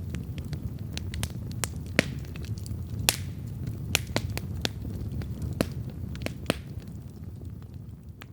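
Wood campfire crackling: irregular sharp pops and snaps of burning wood over the low, steady rush of the flames, fading near the end.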